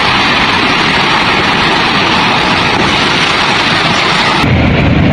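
Loud, steady rush of floodwater. About four and a half seconds in it cuts abruptly to a deeper, lower roar.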